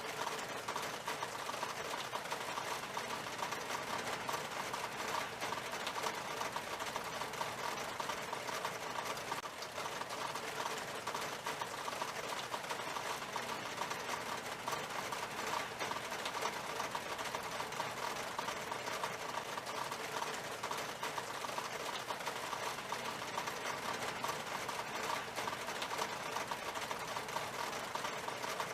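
Steady rain falling on window glass: a dense, even stream of tiny drop ticks that never lets up.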